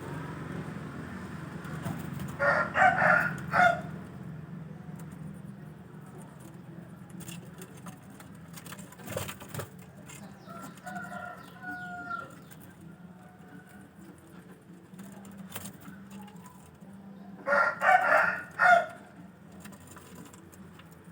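A rooster crowing twice, about fifteen seconds apart, each crow a loud broken call of a little over a second. Fainter short calls come between the crows, over a steady low hum.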